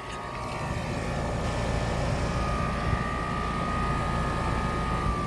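Air conditioning condensing unit starting up: fan and compressor noise builds over the first second and settles into a steady run, with a thin steady whine joining about halfway through.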